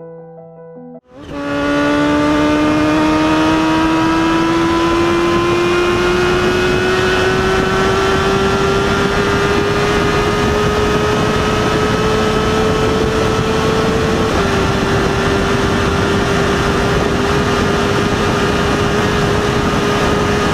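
Kawasaki Ninja H2R's supercharged inline-four held at high revs on a long full-throttle run, its pitch climbing slowly. There is a small drop in pitch about fourteen seconds in, after which it runs steady. A bit of piano music plays for the first second.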